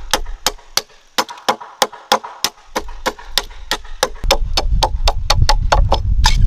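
Quick, regular chopping strikes of a blade into wood, several a second. From about four seconds in, a low rumble runs under them.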